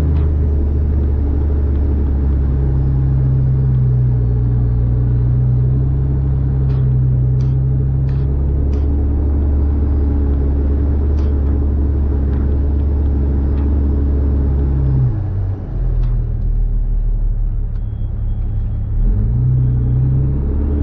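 Kenworth W900B dump truck's CAT C13 inline-six diesel engine running steadily under load while driving. The engine note drops about fifteen seconds in and picks up again near the end.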